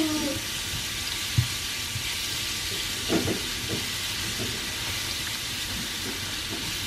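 Pounded spice paste sizzling in hot oil in a frying pan, a steady hiss, as it is sautéed and stirred with a silicone spatula. A few short knocks come through, about a second and a half and about three seconds in.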